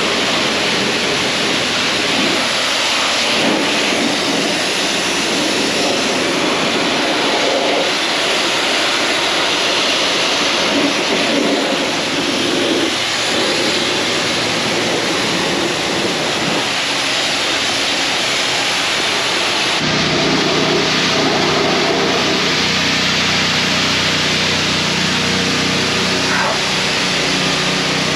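High-pressure washer wand spraying and rinsing a mud-covered truck camper, a loud, steady hiss of water on the body panels. About two-thirds of the way through, the steady hum of a pump motor joins the spray.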